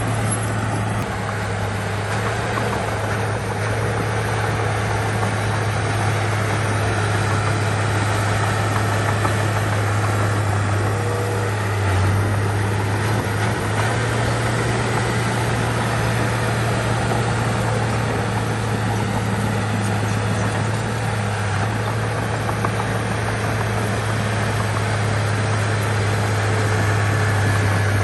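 Diesel engine of heavy earthmoving machinery running steadily, with a low, even drone that holds at one level for the whole stretch.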